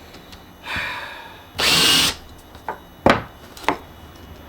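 A handheld power tool run in two short bursts about a second in, the second louder, followed by two sharp knocks.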